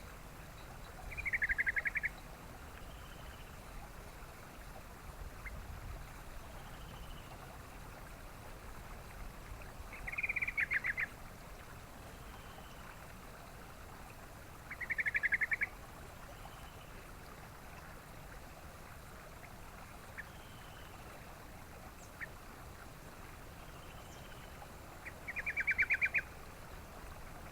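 Yellow-vented bulbul (trucukan) calling: four short, rapid pulsed trills, each about a second long and spaced several seconds apart, over a steady faint background hiss.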